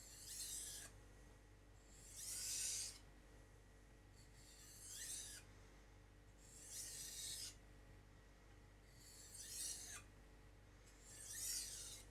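A kitchen knife blade drawn edge-trailing along a strop in six slow, faint strokes, one about every two seconds: the stropping step after the 1000-grit whetstone, which takes the burr off the freshly sharpened edge.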